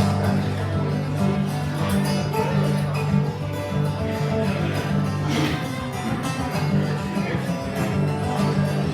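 Acoustic guitar music in a country style, played steadily with a bass line underneath.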